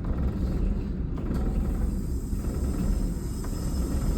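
Diesel railcar engine idling, a steady low rumble heard in the driving cab while the brakes are being released.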